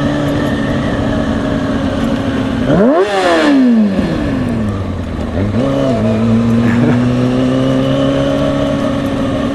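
2003 Kawasaki ZX-6R 636's inline-four engine running steadily, with one sharp throttle blip about three seconds in: the pitch shoots up and falls back within about a second, then the engine settles back to a steady, slowly rising drone.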